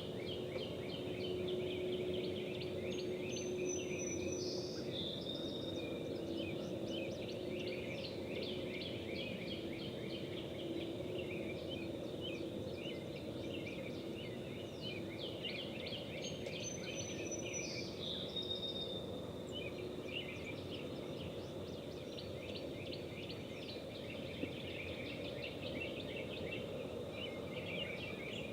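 Outdoor morning ambience: a steady low rushing background under a continuous chorus of small birds chirping, with the same longer call, stepping down in pitch, heard twice, a few seconds in and again about halfway.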